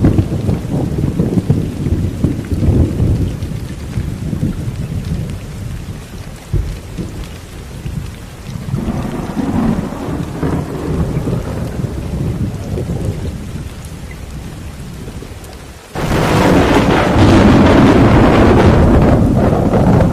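Thunderstorm: low rolling thunder over rain, dying away, with another rumble about halfway. Near the end a loud burst of thunder and heavier rain starts suddenly.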